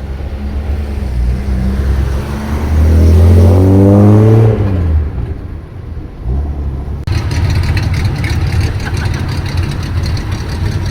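Hakosuka Nissan Skyline with a very loud exhaust, its engine running with a deep rumble and revved once about three seconds in, the pitch climbing and then dropping back. From about seven seconds in it settles to a rough, uneven idle with more hiss.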